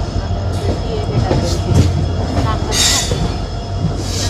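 Passenger train in motion, heard from on board: a steady low hum and rumble, with a few short hissing bursts, the loudest about three seconds in.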